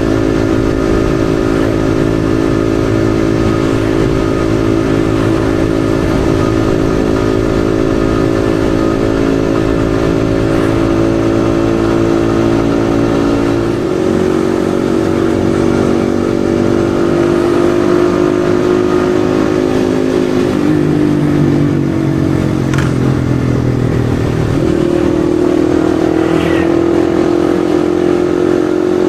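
Yamaha XSR155's single-cylinder engine running while riding, heard on board. Its pitch holds fairly steady, changes about halfway through, dips briefly, then climbs again near the end.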